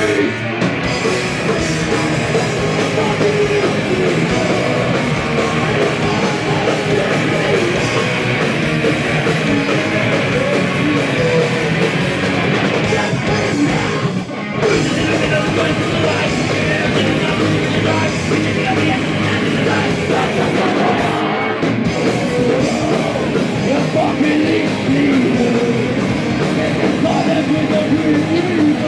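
Punk band playing live: loud distorted guitars and drums with shouted vocals. The music breaks off for a moment about halfway through, then goes on.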